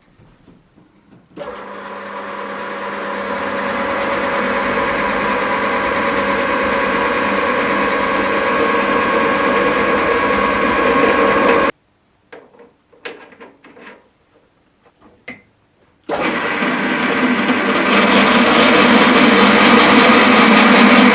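Air compressor and sandblasting rig running: a loud, steady machine noise with hiss that starts abruptly about a second in and builds up. It stops suddenly near the middle, with only a few faint clicks for several seconds, then starts again and gets louder near the end.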